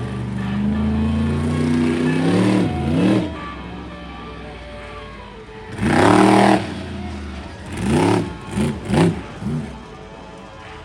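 Monster truck engine revving hard while spinning donuts: a long rising rev over the first three seconds, then a loud blip about six seconds in and a run of quick throttle blips around eight to nine seconds.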